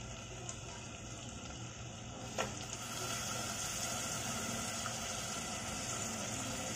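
Onion-tomato masala sizzling gently in a steel pot. About two and a half seconds in, cauliflower florets drop onto the hot masala with a short sound, and the sizzling then grows a little louder.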